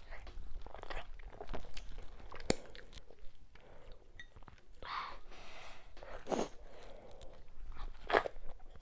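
Close-miked chewing and wet mouth sounds of someone eating fufu with sticky ogbono soup by hand: soft smacks throughout, a sharp click about two and a half seconds in, and a loud wet smack near the end as soup is sucked off the fingers.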